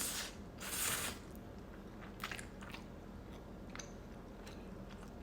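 A person eating and chewing food. There are two short noisy bursts in the first second, then a few faint, scattered mouth clicks.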